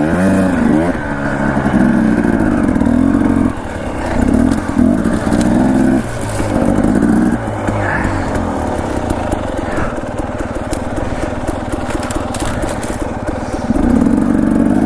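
Dirt bike engine at low revs, the throttle opened and shut in short bursts every second or two as the bike crawls over rough single-track, with scattered clicks and knocks.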